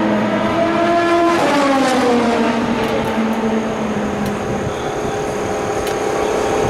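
Endurance racing car engines on track. The engine note falls in pitch over the first couple of seconds, then settles into a steadier drone with a thin high whine above it.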